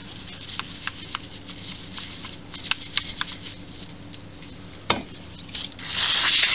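Handling of heavy metal lathe parts on a workbench: scattered light metallic clicks and taps, with a louder knock about five seconds in. Near the end a loud, steady rushing noise starts.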